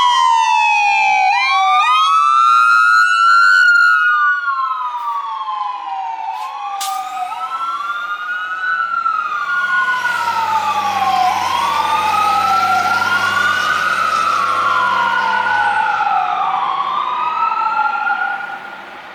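Fire truck sirens wailing, two of them overlapping and out of step, each rising and falling every couple of seconds, with a low steady engine hum midway. The sirens cut off near the end.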